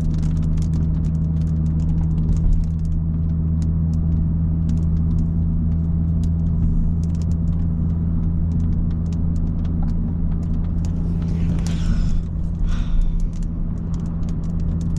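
Steady low drone of an Audi S5 cruising at an even speed, heard inside the cabin, with light scattered ticks of rain striking the car. A couple of brief swishes come about twelve seconds in.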